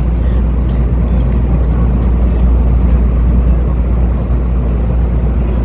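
Loud, steady low rumble of a vehicle under way, with no distinct knocks or changes.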